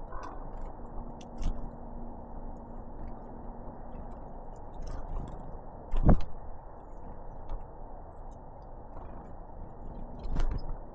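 Great tits and blue tits landing and pecking at seed close to the microphone: scattered sharp knocks, clicks and scrapes, the loudest knock about six seconds in and another cluster near the end, over a steady noisy background.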